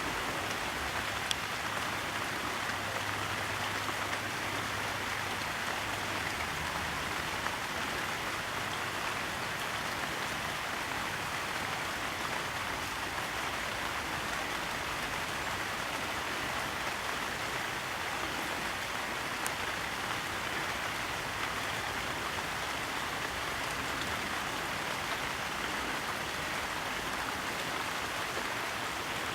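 Steady rain falling, an even hiss of drops with a few faint ticks.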